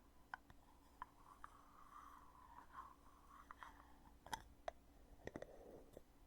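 Lid of a foundation container being worked open and shut: faint rubbing of the lid, then a few sharp clicks, the loudest about four seconds in.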